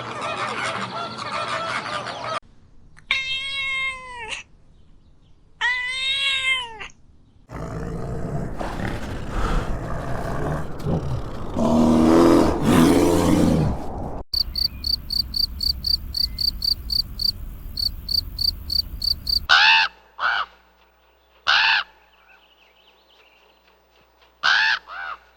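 A run of different animal calls, one clip after another. Goose-like honking opens it, followed by two long arched calls and a low, noisy rumbling stretch. Then comes a high insect-like chirping at about four pulses a second, and near the end a few short sharp calls.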